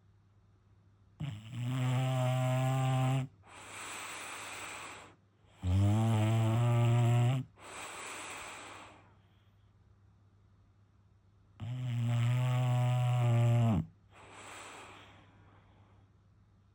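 A sleeping bulldog snoring: three loud, pitched, rattling snores about two seconds long, each followed by a softer breathy exhale.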